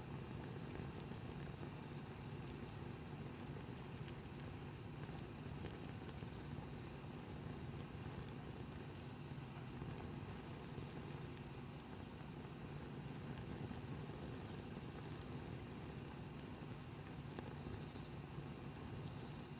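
Insects singing: a high buzzing trill about a second and a half long that repeats every three to four seconds, over a second insect's rapid pulsed chirping and a low steady rumble.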